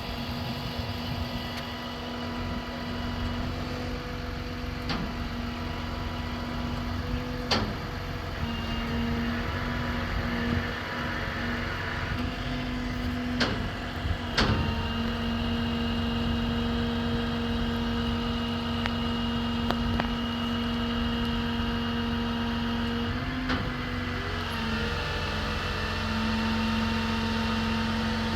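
Bucket truck engine running steadily at idle, with a steady whine that steps slightly in pitch a few times and a handful of sharp clicks.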